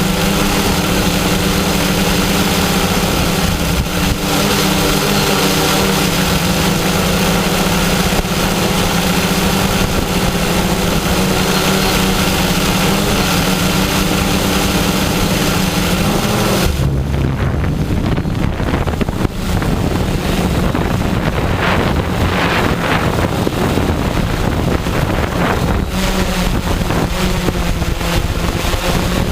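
Multirotor drone's electric motors and propellers humming steadily, with strong wind buffeting the microphone. About 17 seconds in the hum breaks up into rougher, noisier sound as the motors work against the wind, then settles back to a steady hum near the end.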